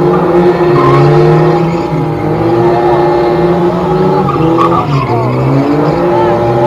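A car engine revving hard with tyres squealing, as in drifting; the engine pitch dips and climbs back a couple of times.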